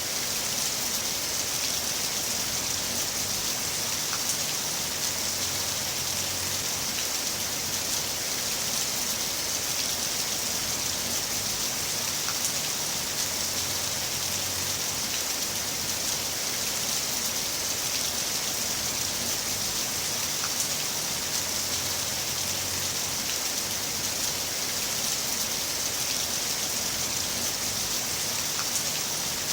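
Heavy rain falling steadily, a continuous even hiss with scattered drop ticks.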